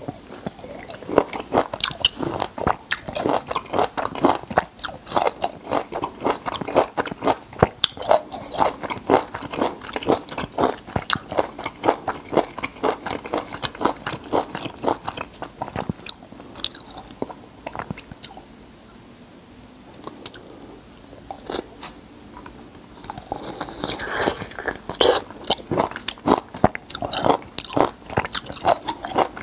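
Close-miked wet chewing of raw peeled lime and lemon flesh: juicy, squelching bites and chews. The chewing eases off for a few seconds about two-thirds of the way through, then picks up again with a fresh, louder bite.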